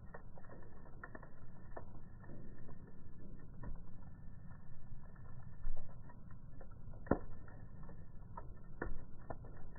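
Wood fire burning with a low steady rumble and scattered crackles and pops from the burning logs; a sharp pop comes about seven seconds in and another near nine seconds.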